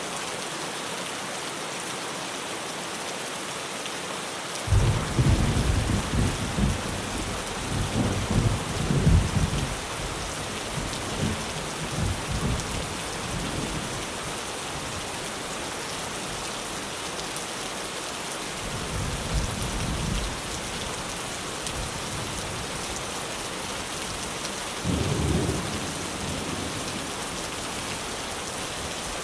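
Steady rain drumming on a tin roof, with thunder breaking in suddenly about five seconds in and rolling on for several seconds. Two shorter, weaker rumbles of thunder follow later.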